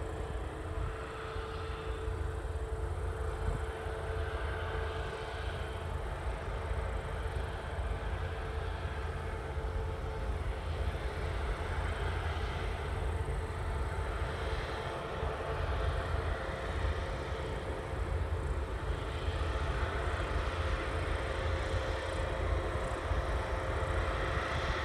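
Heavy harvest machinery running steadily, a constant whine over a heavy low rumble.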